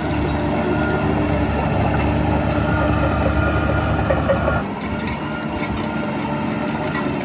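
Heavy diesel earthmoving machinery running steadily with a deep rumble. About four and a half seconds in, the low rumble drops away and the sound gets a little quieter.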